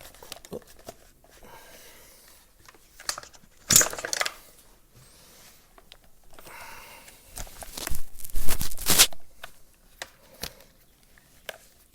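Irregular scraping, rustling and clicking of whipper snipper parts being handled and fitted back onto the drive shaft. There is a short burst about four seconds in and a longer, louder one from about seven and a half to nine seconds.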